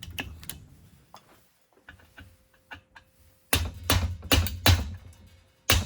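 Metal clicks and knocks from working the gear shifter shaft out of a 1980 Honda CR80 engine case: a few light clicks, a quiet stretch, then a cluster of heavier clunks from about three and a half seconds in and a sharp knock near the end.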